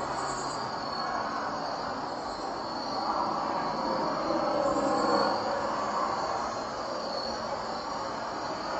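Outdoor night ambience: a steady, broad distant rumble with insects, such as crickets, chirring in a high, pulsing band.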